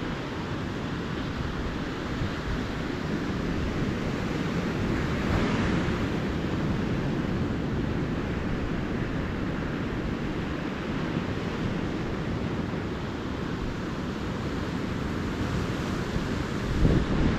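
Ocean surf washing steadily onto the beach, with wind rumbling on the microphone, strongest near the end.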